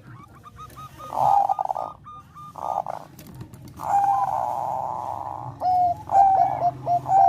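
Zebra doves of the Thai 'bangkok' strain cooing: runs of short staccato coos. A longer trilled coo fills the middle of the stretch, and a quick series of clipped notes follows near the end.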